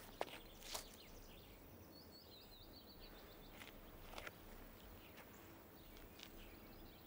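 Quiet outdoor ambience: a small bird twitters faintly in a short run of quick, high chirps about two to three seconds in. A few soft taps are heard around it.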